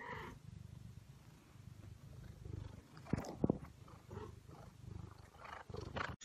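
A cat purring: a low steady rumble, with a couple of brief soft knocks about three seconds in.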